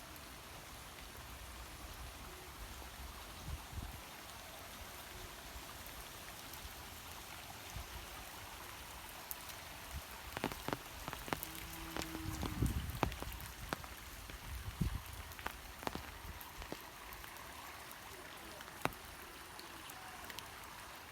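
Steady rain falling, a continuous hiss with scattered sharp drop hits. About halfway through there are a few seconds of low rumble, and the hits come louder and closer together.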